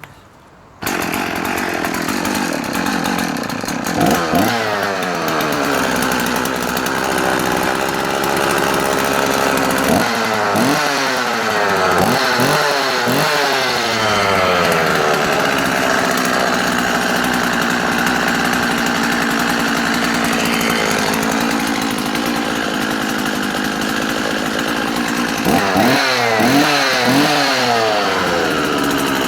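Husqvarna Rancher 50 vintage two-stroke chainsaw engine, running with the bar and chain removed. It starts about a second in and idles, with a quick rev at about four seconds, a run of several revs between about ten and fourteen seconds, and a few more blips near the end.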